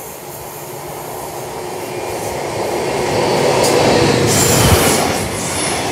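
Loram yellow track machine passing close by at speed: its running noise and wheel rumble grow steadily louder as it approaches and goes past, with a heavy wheel thump over the rail about four and a half seconds in.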